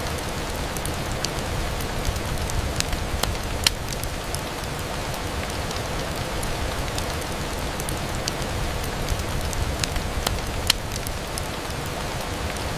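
Steady rain falling on a window, with scattered sharp clicks throughout; the two loudest come at about 3.5 and 10.5 seconds in.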